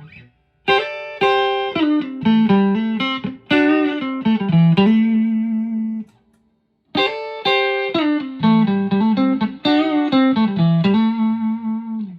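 Clean electric guitar: a Fender Stratocaster on its neck pickup played through a Fender amp, no effects. A short lick of single notes is played, stops about six seconds in, then is played again in much the same shape.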